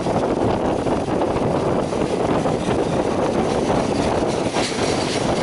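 Steady running noise of a moving passenger train, heard from an open carriage window: wheels on the track and rushing air.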